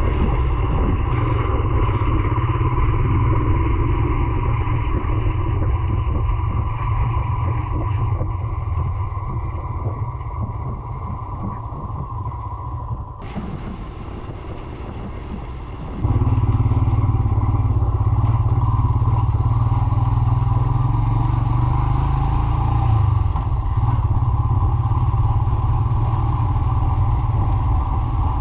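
Royal Enfield Himalayan's single-cylinder engine running under way, with wind and rattle. It eases off and gets quieter a few seconds before the middle, then jumps back up suddenly about sixteen seconds in.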